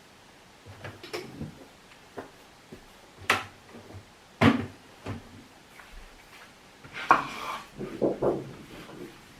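Objects being handled and set down on a hard surface: scattered knocks and clacks, the sharpest about three and four and a half seconds in, and a longer clatter about seven seconds in.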